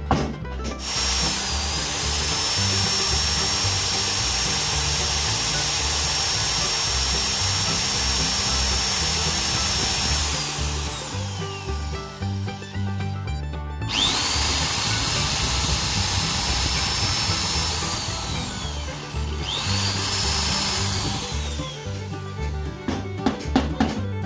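High-speed electric power tool running in three bursts, a long one and then two shorter ones. Each burst is a steady high whine that spins up at the start and winds down when the trigger is released. Background music plays underneath.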